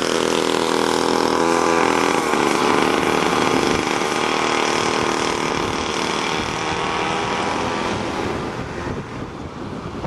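32cc Remington chainsaw engine driving a motorized skateboard, running steadily at part throttle; the sound drops away about eight seconds in.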